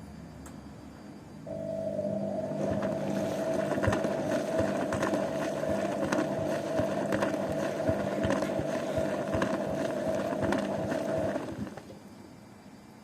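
Zanussi washing machine's motor turning the drum: a steady hum that starts about a second and a half in, with irregular knocks from the load as it turns, and stops near the end.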